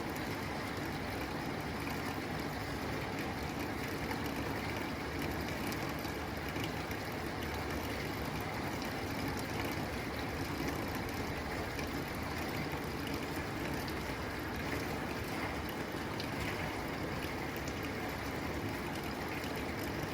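Steady rain pattering on a tin roof, an even wash of drops with scattered sharper taps on the metal.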